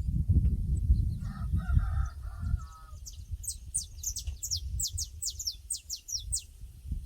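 Pasture ambience: a rooster crows once, about a second in, over a low rumble. This is followed by a small bird singing a quick series of high, falling notes, several a second.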